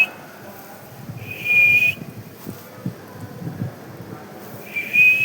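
Puppy whining in short, steady high-pitched whines, three times: right at the start, about a second and a half in, and near the end, with soft knocks in between.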